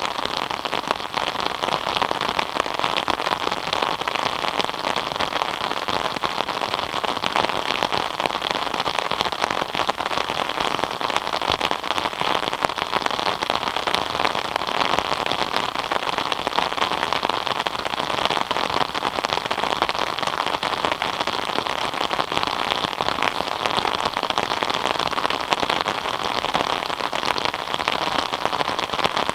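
Steady rain falling, a dense patter of countless drops that holds even throughout.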